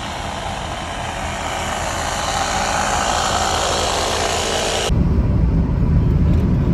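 Road and wind noise of a moving vehicle: a steady hiss that slowly grows louder, then cuts off abruptly about five seconds in to a deeper low rumble.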